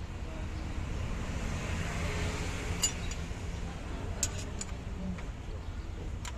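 Hand tools clinking on metal, a handful of sharp clicks during valve-clearance adjustment on an Isuzu 6HH1 diesel engine, over a steady low rumble.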